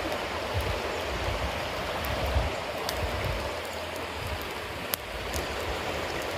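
Bonfire of wet cedar leaves and damp firewood burning: a steady hiss with scattered crackles and small pops, the sharpest pop about five seconds in.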